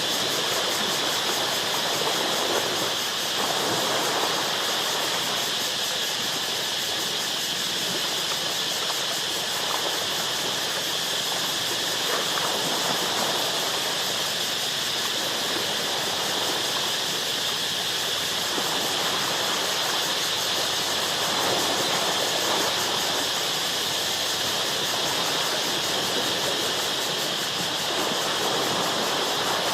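Ocean waves washing against rocks, swelling every few seconds over a steady high hiss.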